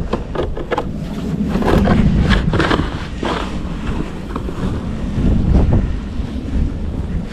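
Wind buffeting the microphone with a heavy low rumble, overlaid by a series of short, irregular rough noises that are most frequent in the first few seconds.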